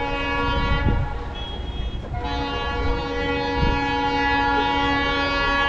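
Locomotive horn sounding in long blasts, breaking off about a second in and coming back about two seconds in, held almost to the end, over the low rumble of the passing train.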